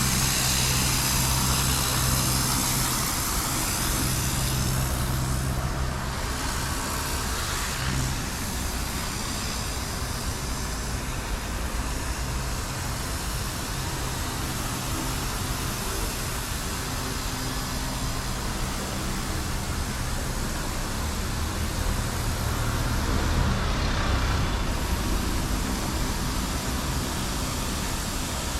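Motor traffic passing by: steady road noise, with an engine hum that is loud at first and fades after about eight seconds, and another vehicle passing louder about three quarters of the way through.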